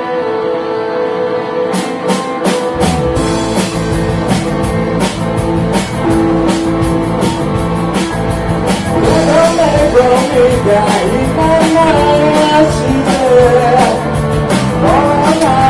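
A rock band playing live: sustained guitar chords, then drum kit and bass come in about two seconds in, with a lead melody over the band from about nine seconds.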